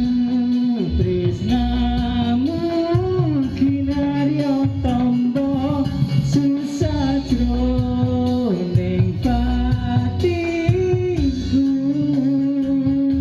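A voice singing a melody in long held notes that slide between pitches, over instrumental music with guitar.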